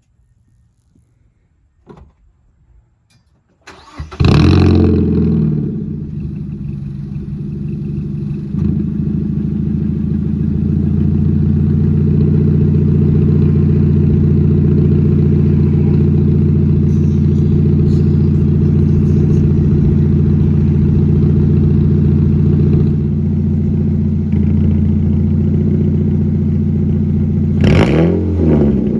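Mazda NC Miata's 2.0-litre four-cylinder engine starting about four seconds in with a flare of revs, then idling steadily and loudly through a nearly straight-piped exhaust: stock header with its cat, Mazdaspeed mid pipe with the resonator removed, and an ISR muffler delete. Near the end it is revved twice. A few faint clicks come before the start.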